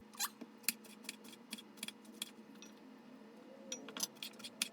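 A kitchen knife slicing cucumbers on a cutting board: irregular sharp knocks of the blade meeting the board, a few a second, coming faster near the end.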